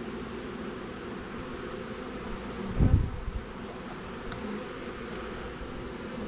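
A honey bee swarm buzzing steadily at close range, a dense hum of many bees. A single dull thump about three seconds in.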